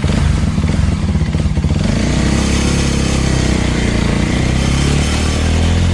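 Small Suzuki motorcycle engine pulling away under acceleration, loud, its pitch rising and falling as it revs up.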